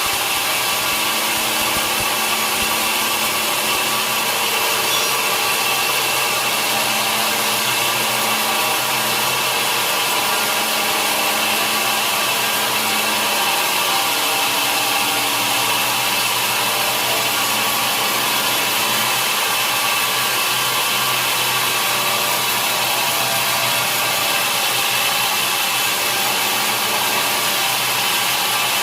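A sawmill saw running steadily through a large mahogany log, a continuous hissing cut with a steady machine hum underneath.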